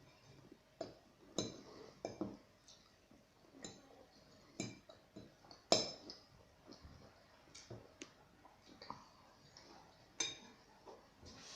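Scattered light clinks and ticks of small hard objects, about a dozen at irregular intervals, several with a short bright ring.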